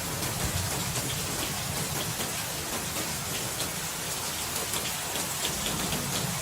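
Steady rain falling, with fine pattering drops. A low rumble of thunder dies away in the first second and returns faintly near the end.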